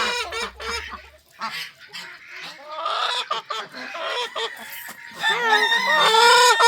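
Backyard chickens and ducks calling, with scattered short clucks early on and a long, loud call from about five seconds in to the end.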